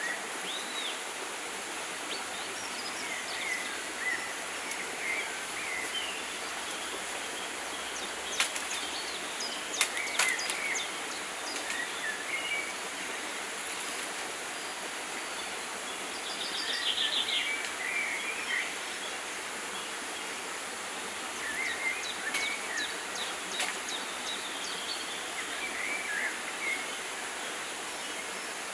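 Evergreen rainforest ambience: a steady hiss with scattered short bird chirps throughout. There are a few sharp snaps about a third of the way in, and a brief buzzy trill just past the middle.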